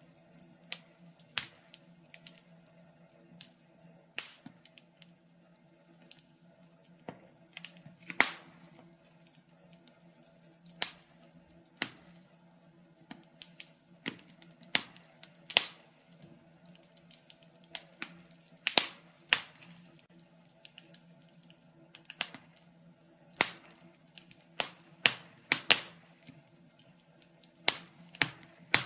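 Wood fire crackling in a fireplace: sharp, irregular pops and snaps at uneven intervals, some much louder than the rest.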